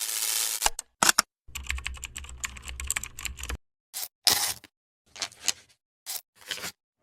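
Rapid clicking like keyboard typing, in short bursts separated by dead silence, with a longer run of clicks over a low hum about one and a half to three and a half seconds in.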